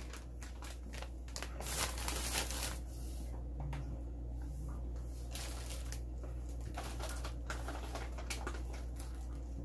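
Rustling, crinkling and light knocks from items being handled and wiped in a refrigerator being cleaned out, over a steady low hum.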